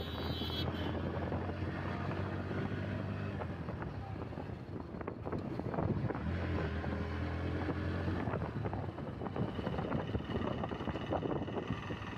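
Bajaj Pulsar NS125's single-cylinder engine running steadily at cruising speed, with wind buffeting the microphone. A brief high-pitched sound is heard right at the start.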